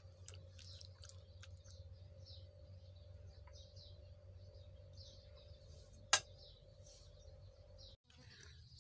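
Faint bird chirps, short calls repeating every half second or so, over a steady low hum. A single sharp click stands out about six seconds in.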